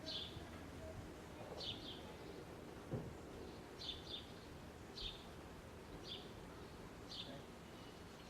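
A small bird chirping, short high chirps repeated about once a second, faint over low background noise. There is a single light knock about three seconds in.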